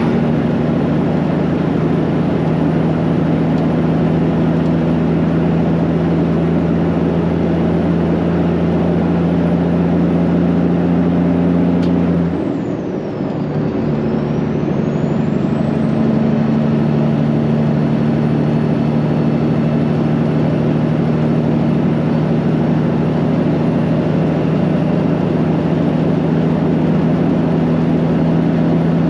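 Straight-piped Peterbilt 389's diesel engine running steadily. About twelve seconds in, the engine note drops briefly, as at a gear shift, and a faint high whine dips and rises again before the engine picks back up to the same steady note.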